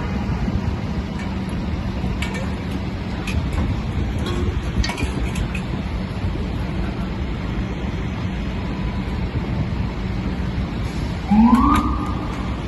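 Steady low rumble of a truck engine and city traffic, then near the end a fire truck siren gives one short rising whoop that levels off for about a second.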